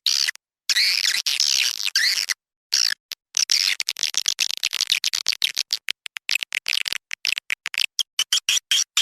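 Recorded swiftlet call track: edible-nest swiftlets chirping and twittering rapidly and high-pitched, a lure sound played to draw swiftlets into a nesting house. The calls are chopped by abrupt dead-silent gaps, the longest about half a second and about two and a half seconds in.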